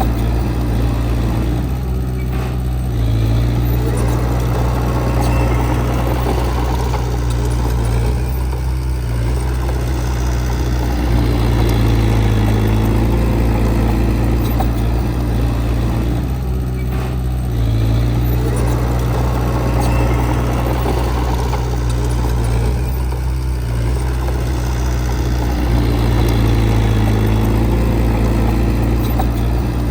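Heavy earth-moving machine's diesel engine running steadily, its note shifting in a repeating cycle about every seven to eight seconds.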